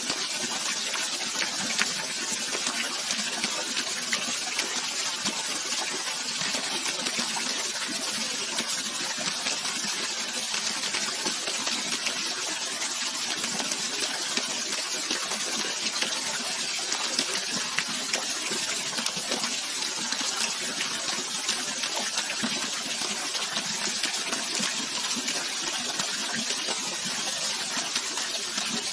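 Steady rush of flowing water, an even, unbroken hiss with fine splashing detail.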